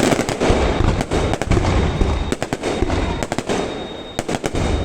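Fireworks going off: a dense, irregular run of sharp bangs and crackling over deep booms, thinning a little about four seconds in before picking up again.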